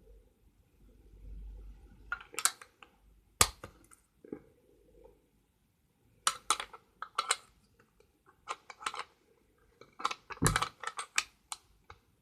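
Plastic Lego pieces clicking and clattering in irregular clusters, with a louder knock about ten and a half seconds in.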